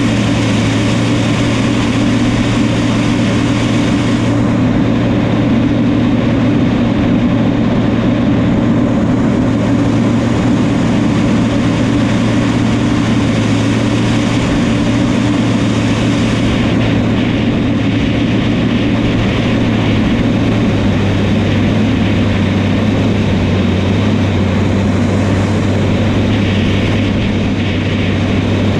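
New Holland crawler bulldozer's diesel engine running steadily under load, a loud continuous drone; its pitch drops slightly about two-thirds of the way through.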